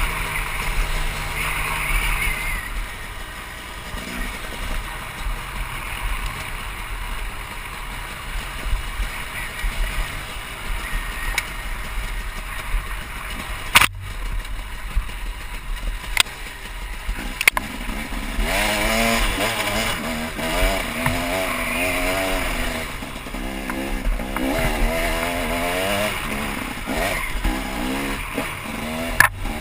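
KTM 300 EXC two-stroke dirt bike engine under way on the trail, running low at first with rumble and noise. From just past halfway it revs up and down repeatedly. A few sharp clicks cut across it.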